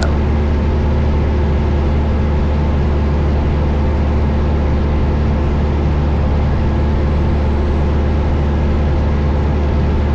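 Steady drone of a Cessna 172 Skyhawk's four-cylinder Lycoming engine and propeller in cruise flight, heard inside the cabin, with a single sharp click at the very start.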